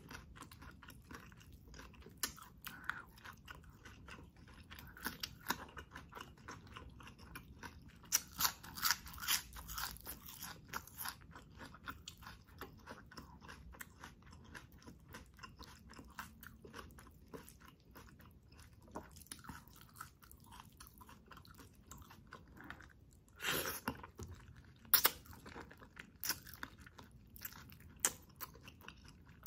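A person eating with the mouth close to the microphone, chewing and biting food with wet smacks and crunches. The food is chicken adobo in coconut-milk sauce with rice. The eating sounds come in busier, louder spells about eight to eleven seconds in and again around twenty-four seconds.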